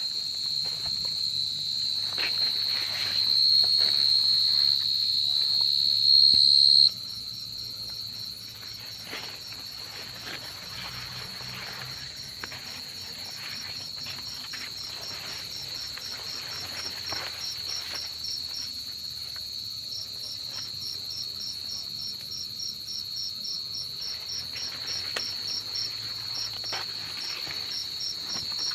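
Crickets calling at night: a loud, continuous high trill that drops off suddenly about seven seconds in, leaving a steady trill with an evenly pulsing chirp just above it.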